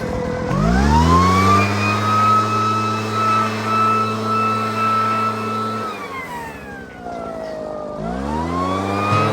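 Leaf blower engine throttled up about half a second in, held at a steady high pitch for about five seconds, then let down and throttled up again near the end.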